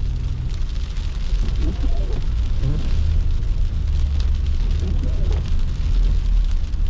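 Car driving on snowy city streets: a steady low rumble of engine and tyres under an even hiss of road noise.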